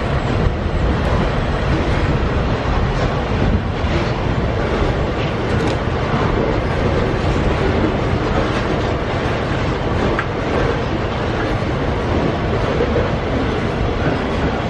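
Loaded iron-ore freight wagons rolling past on the rails: a steady, loud rail noise with a few faint wheel clicks.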